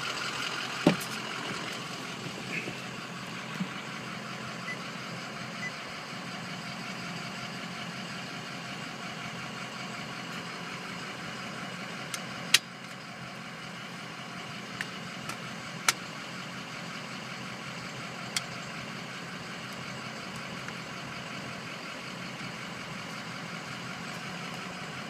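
Ford F-250 diesel engine idling steadily, with a few sharp clicks scattered through, the loudest about twelve and a half seconds in.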